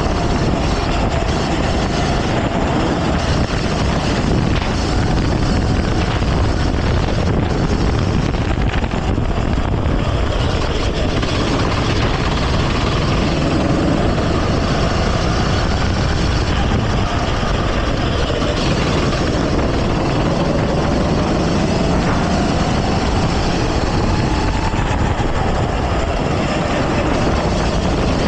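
Go-kart engine running hard during a race, its pitch rising and falling as the driver accelerates and lifts off, under a constant rush of noise.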